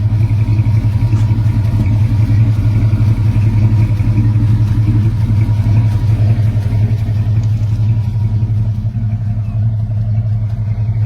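Chevrolet 350 V8 engine of a 1975 Chevrolet C20 pickup running at a steady speed, with a strong, even low hum.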